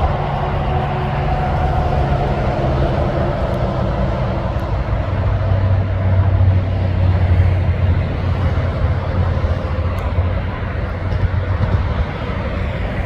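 Heavy truck's diesel engine driving past, its engine note falling in pitch over the first few seconds, then a deep steady drone that is loudest in the middle.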